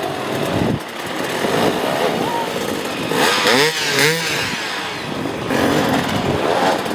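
Enduro dirt bike engine revving hard, its pitch rising and falling in quick swoops about three to four seconds in.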